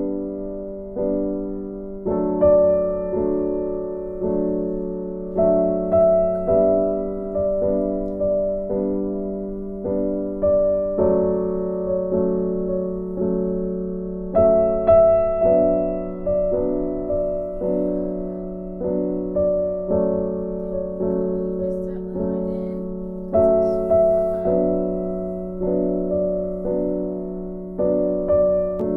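Gentle background piano music: soft repeated chords, a new note about every second, each fading away.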